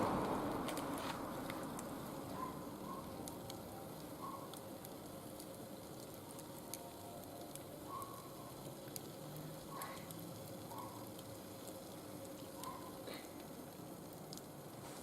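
Wood fire burning in a barbecue grill, crackling with scattered sharp pops over a low hiss. A louder rushing noise fades out over the first two seconds, and a few faint short chirps come and go.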